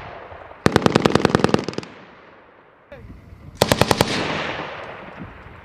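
Belt-fed machine gun firing two bursts on a range: a longer burst of about a dozen rapid shots about a second in, then a short burst of about five shots near the end. Each burst echoes away.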